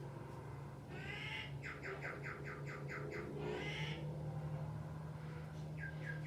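A wild bird calling: a harsh call about a second in, then a rapid run of about nine short repeated notes, another call, and a shorter run of quick notes near the end, over a steady low hum.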